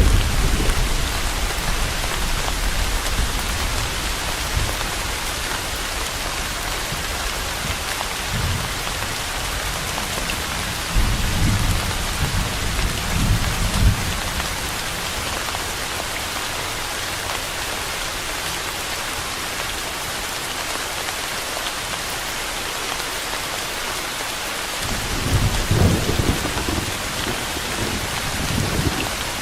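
Steady rain falling as an even hiss. Low thunder rumbles swell up and die away several times: at the very start, briefly about eight seconds in, for about three seconds around the middle of the first half, and again near the end.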